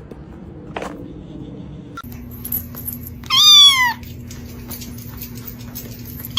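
A cat meowing once, loud and drawn out, about halfway through, with a second meow starting right at the end.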